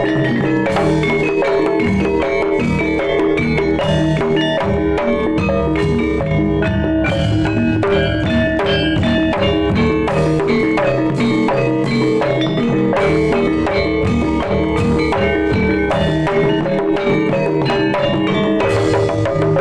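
Jaipong-style kendang drumming in a jaranan piece, played continuously over ringing gamelan-type mallet instruments that hold a repeating melody.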